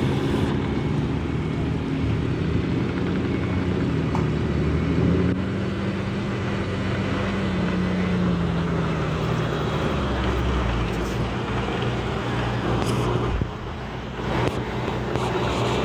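Diesel engine of a Shantui DH17C2 bulldozer working under load, its pitch swelling up and back down midway; the sound drops briefly for a moment near the end.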